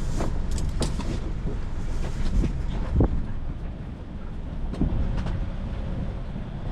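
Wind buffeting the microphone as a steady low rumble, with a few sharp knocks and rustles from the mainsail and its hardware as the sail is lowered and folded at the mast, the loudest knock about three seconds in.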